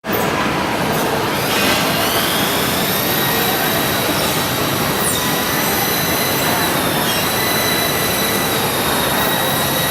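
A helicopter running: a steady rushing noise with a high whine that climbs a little in pitch over the first few seconds, then holds steady.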